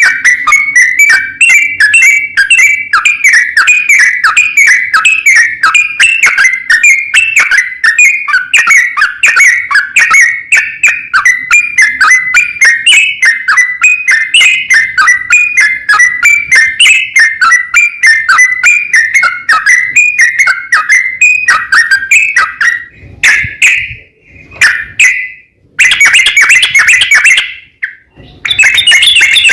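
Yellow-vented bulbul singing: a long, rapid run of bubbly whistled notes, several a second. Near the end it breaks into a few shorter bursts with pauses between them.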